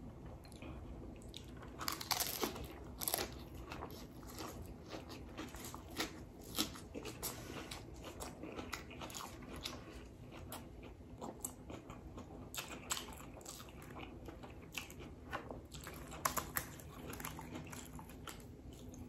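Close-up chewing and biting of crispy bánh xèo wrapped in lettuce, with many short crackling crunches scattered throughout. The loudest crunches come about two seconds in and again near the end.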